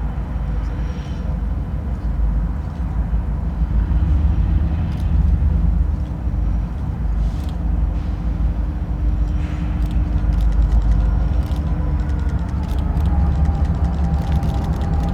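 Steady low rumble of a train running, with a faint steady hum and scattered light clicks.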